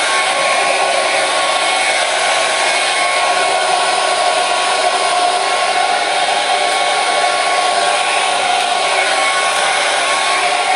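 Hair dryer running steadily, a constant airy whoosh with a faint motor whine, played continuously as a sleep sound for children.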